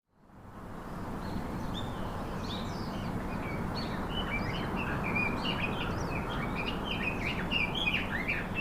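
Several birds chirping and calling in quick overlapping short notes over a steady outdoor background hiss, fading in at the start.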